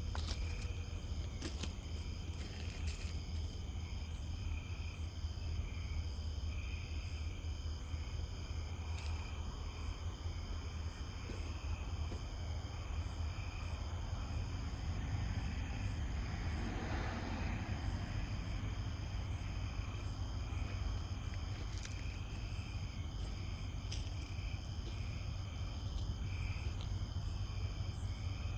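Night insects chirping steadily in several high, even bands, with a pulsing chirp repeating about once a second, over a steady low rumble. About halfway through, a broad noise swells up for a couple of seconds and fades.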